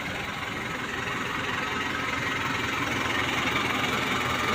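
Mitsubishi Canter FE SHDX truck's diesel engine idling steadily.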